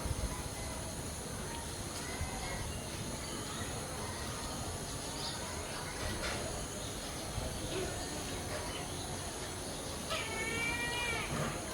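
Outdoor ambience with a steady high-pitched whine and low background rumble, and one drawn-out mewing call about ten seconds in, lasting just over a second.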